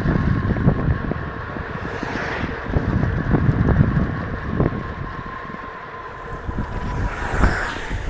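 Mountain bike riding over rough wet ground: rumble and knocks from the bike, with wind buffeting the microphone. A faint steady high tone runs under it and fades out near the end.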